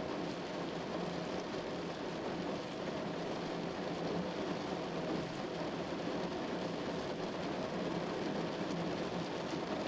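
Steady rain falling, an even, unbroken patter with no breaks or single drops standing out.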